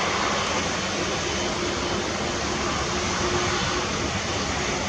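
Steady noise of a jet airliner's engines, even and unchanging, with a faint hum underneath.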